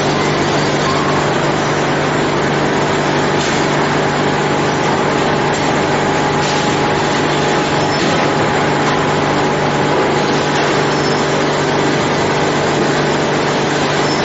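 Factory machinery running steadily: a loud, even mechanical noise over a constant low hum.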